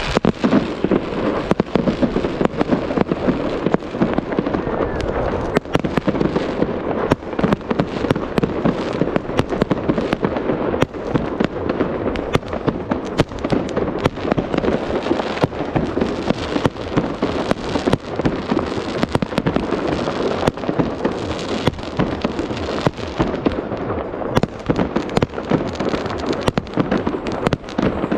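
Fireworks going off in a dense, continuous barrage: many sharp cracks and bangs over a steady crackling rumble.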